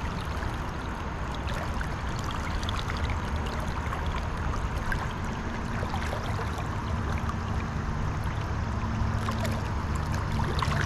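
Steady rush of flowing river current, an even wash of water noise, with a faint low hum joining about halfway through.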